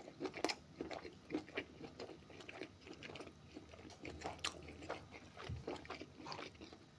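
A man chewing a mouthful of stewed beef offal close to the microphone: soft, irregular clicking and smacking mouth sounds.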